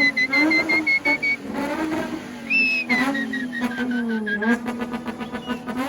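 Car drifting: tyres squealing in two long squeals, the first fading out just over a second in and the second starting about halfway and dropping in pitch, with the engine revving up and down underneath.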